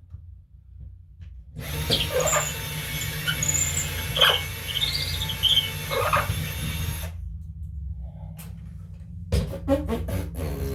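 Power drill running for about five seconds, boring a hole in the ceiling for a hook anchor, then stopping abruptly. Parrot chirps sound over it.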